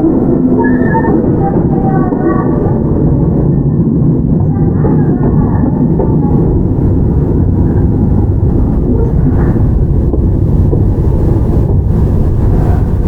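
Onboard running sound of a Toyama Chiho Railway 17480 series electric train, a former Tokyu 8090 with field-chopper control. It gives a steady, continuous rumble of wheels, motors and car body as the train runs along the line.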